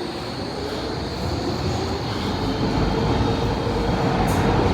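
Docklands Light Railway train running, a dense low rumble with a whine that rises slightly in pitch and grows steadily louder as the train picks up speed.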